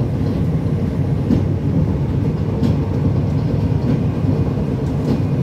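Breda VLC tram running along the track: a steady low rumble with a few faint clicks.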